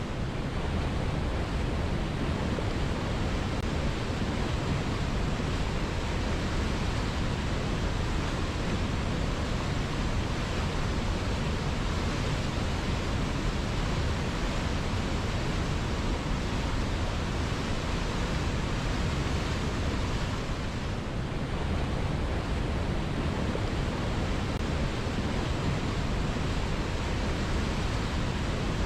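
River water flowing in a steady, even rush, briefly a little softer about two-thirds of the way through.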